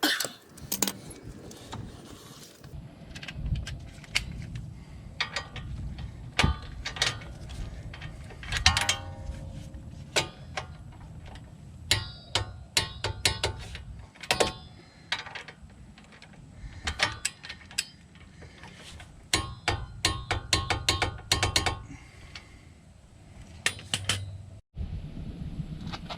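Hand tools working on a car's front brake: a socket ratchet clicking in quick runs, with metal clinks and knocks between them.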